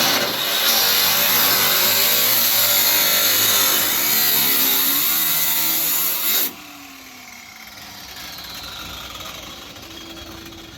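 Car engine running loud and revving, its pitch rising and falling, then dropping away suddenly about six and a half seconds in, leaving a much quieter background.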